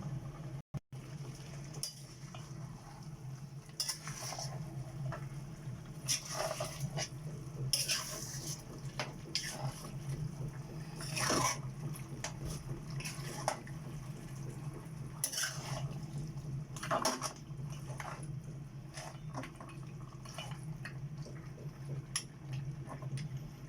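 A utensil clinking and scraping against a cooking pot every few seconds, over a steady low hum.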